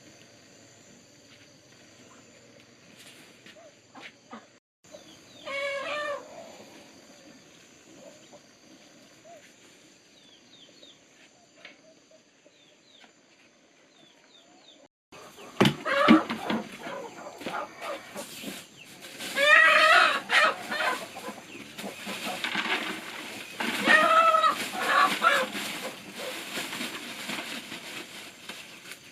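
Chickens clucking, with a rooster crowing three times: once about six seconds in and twice in the louder second half. Sharp knocks from farm work come in about halfway through.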